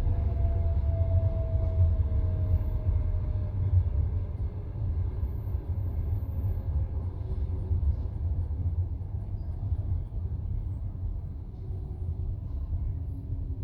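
Low, steady rumble of a passenger train heard from inside the carriage, with a faint whine slowly falling in pitch as the sound eases off.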